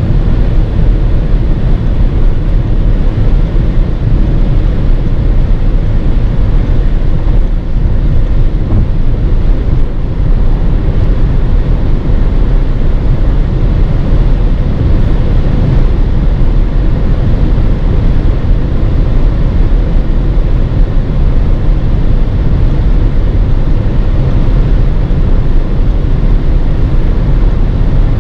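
2016 VW Passat driving at high speed: a steady low rumble of road, wind and engine noise.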